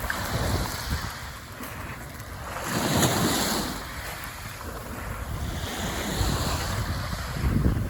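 Small waves washing onto a beach, one swelling hiss about three seconds in, with wind buffeting the microphone and rumbling louder near the end.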